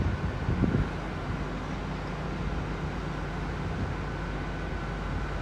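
Class 158 diesel multiple unit running at the platform as it prepares to depart: a steady low engine drone with a faint steady whine above it. Gusts of wind buffet the microphone in the first second.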